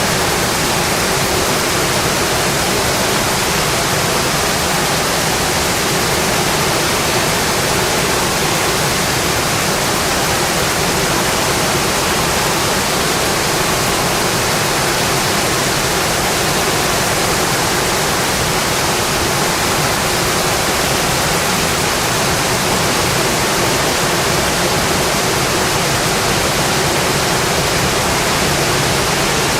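Rain falling steadily on a metal roof: a loud, even, unbroken hiss.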